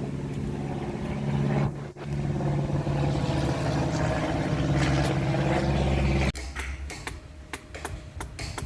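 A motor vehicle's engine running steadily with a low hum, which cuts off suddenly about six seconds in, followed by a few faint clicks.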